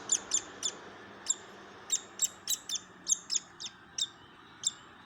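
Fledgling woodpecker begging for food: a run of short, sharp, high calls, several a second at first, coming more sparsely toward the end.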